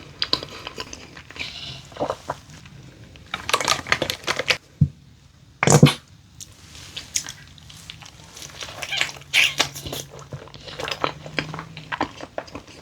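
Close-up chewing and crunching of food in irregular bites, loudest twice in the middle, with a faint steady low hum for a few seconds in the second half.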